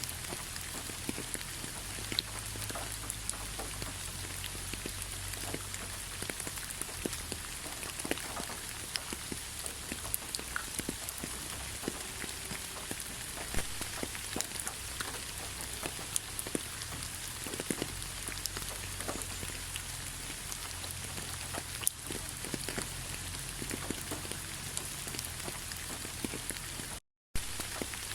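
Steady rain falling on a surface, a constant hiss dotted with many distinct drop ticks. The sound cuts out for a moment near the end, then resumes.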